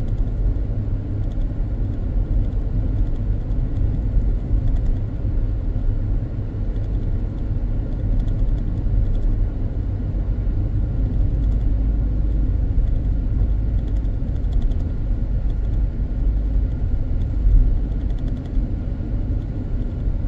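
Car driving along a road, heard from inside the cabin: a steady low rumble of engine and tyre noise, with one brief louder bump about three-quarters of the way through.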